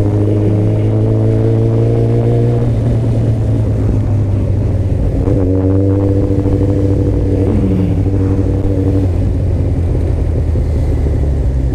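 Kawasaki ZX-14R inline-four engine running at steady revs while riding in traffic, under a constant low drone. Its engine note holds steady for a couple of seconds, falls away about 2.5 s in, and comes back about 5 s in for several more seconds.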